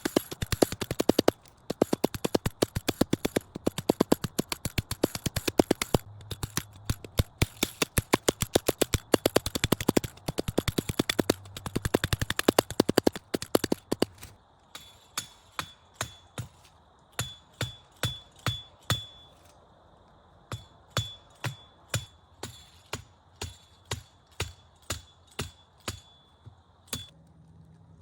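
Rapid series of sharp knocks or strikes, several a second for about half the time, then slower and quieter, around two a second, each with a faint high ring.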